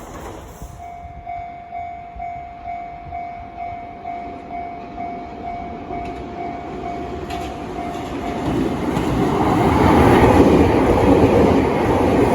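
A Japanese level-crossing alarm bell ringing in evenly spaced strokes, about two a second. About two-thirds of the way in, the noise of an approaching train rises and drowns out the bell.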